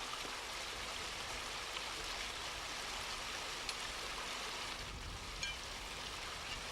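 Steady rush of river water pouring over a weir, with a few faint ticks a little over halfway through.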